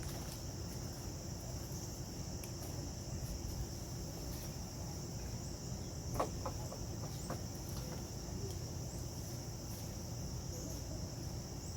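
Steady high-pitched insect chirring, such as crickets, over a low background rumble, with a couple of faint knocks about halfway through.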